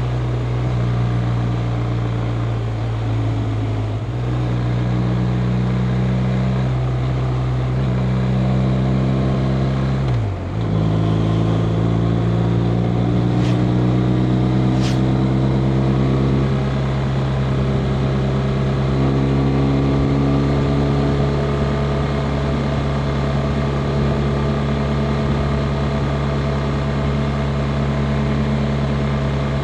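BMW R 1250 RT's boxer twin engine running steadily under way, with a brief dip in pitch and loudness about ten seconds in before it settles back. Two short, faint clicks come a few seconds after the dip.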